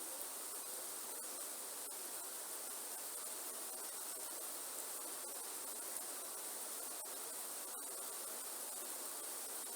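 Steady rain in a forest, a continuous even hiss with faint scattered drop ticks and a steady high-pitched band above it.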